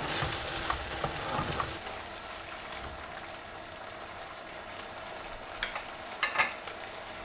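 Onion-and-tomato curry base frying in oil in a pan and being stirred with a spoon. The stirring stops about two seconds in, leaving a steady sizzle, with a couple of light clinks near the end.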